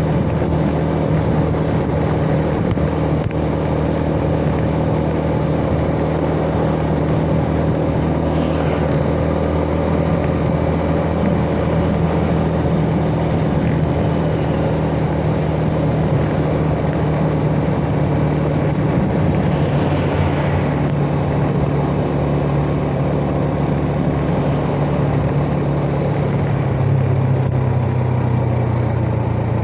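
Yamaha Jupiter Z 'Burhan' underbone motorcycle's single-cylinder four-stroke engine heard from the rider's seat, pulling steadily at an even pitch while cruising; near the end the engine pitch drops as the bike slows.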